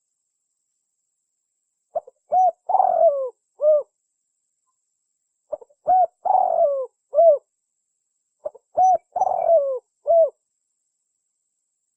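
Spotted dove (tekukur) cooing on a lure recording: three call phrases, starting about two seconds in and repeating roughly every three seconds. Each phrase is a couple of short coos, a longer coo that falls in pitch, and a short final coo.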